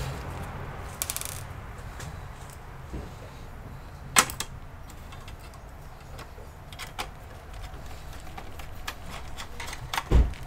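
Scattered clicks and taps of hands handling computer hardware on a workbench, over a low steady hum. A quick rattle of clicks comes about a second in, a sharper click about four seconds in, and a dull thump near the end.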